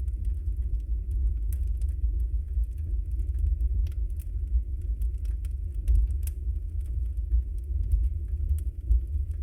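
Wood fire burning in a fireplace: a steady low rumble with scattered sharp crackles and pops from the burning logs, a few louder snaps among them.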